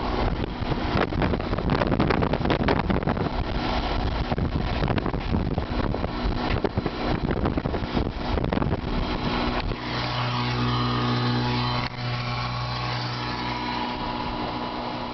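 Strong wind roaring and buffeting the microphone, thick with rapid crackling. About ten seconds in it gives way to a steadier rush with a low, even hum under it.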